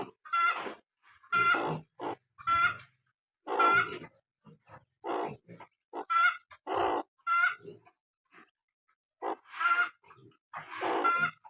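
Short, repeated calls from an adult fowl, with a bird beside newly hatched ducklings as the likely caller. The calls come about once a second, with short pauses between them.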